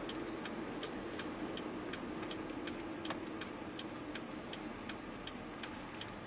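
Steady, even ticking, about two and a half ticks a second, over a faint constant hum.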